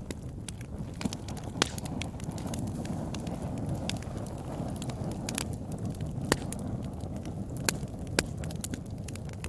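Campfire crackling: a steady low rumble of burning wood with irregular sharp pops and snaps, a few louder pops standing out.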